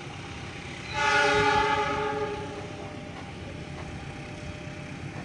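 Diesel locomotive horn, from a CC 201 class locomotive hauling the Brantas train, sounding one blast about a second in that fades out about a second and a half later, over the steady low rumble of the train.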